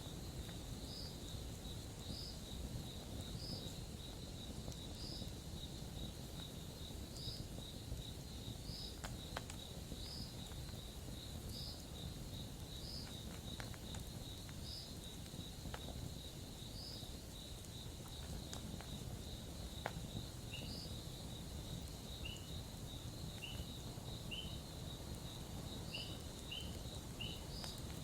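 Insects trilling steadily with a repeating high chirp about once a second, and a second, lower chirping joining about two-thirds of the way through, over a low steady hiss. A few sharp snaps from a campfire.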